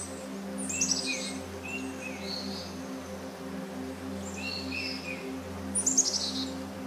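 Birds calling: short repeated chirps and whistles, with a rapid run of quick descending notes about a second in and again near the end, over a steady low hum.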